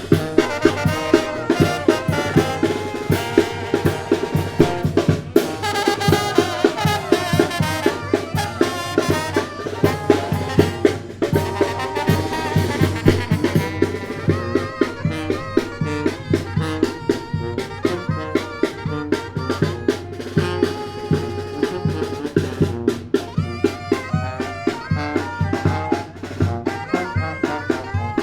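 Mexican tamborazo band playing live: brass instruments carry the tune over a steady beat from the tambora bass drum and snare.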